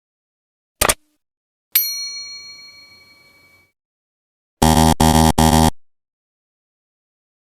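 Quiz-style sound effects: a short click, then a bell ding that rings out for about two seconds, then three quick buzzer blasts in a row.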